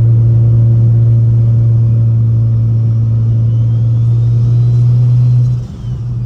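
Straight-piped N54 inline-six of a big-single-turbo BMW 335i cruising at steady revs: a loud, constant low exhaust drone that dips briefly near the end.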